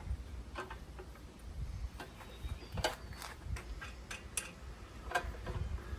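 Light, irregular metallic clicks and clinks, about one every half second to a second, from engine-stand hardware and bolts being handled against the Buick 455 engine, over a low steady hum.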